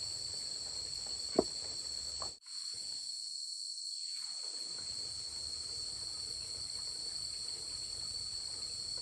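Steady high-pitched chorus of insects calling without a break, with one sharp click about a second and a half in and a brief dropout in the sound about two and a half seconds in.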